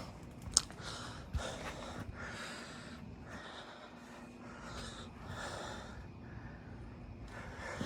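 A man breathing heavily close to the microphone, about one breath a second. One sharp click about half a second in.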